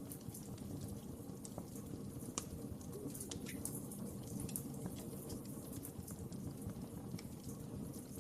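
Wood fire crackling: a steady low rush of burning with irregular sharp pops and snaps.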